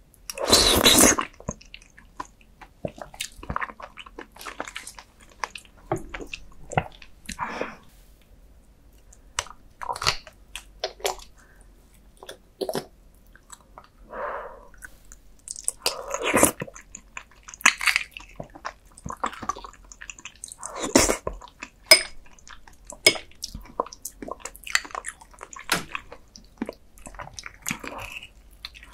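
Close-miked eating of roasted beef bone marrow: soft, wet chewing and mouth sounds in irregular short bursts, the loudest right at the start. Between bites, a metal spoon scrapes the marrow out of the cut bone.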